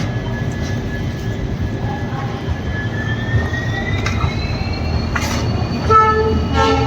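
Passenger train rolling slowly into a station, a steady low rumble with a thin high whine that rises in pitch a few seconds in and then holds. A short pitched sound comes near the end.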